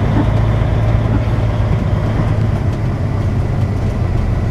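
Semi-truck diesel engine running steadily at low speed, a constant low drone with road and cab noise over it.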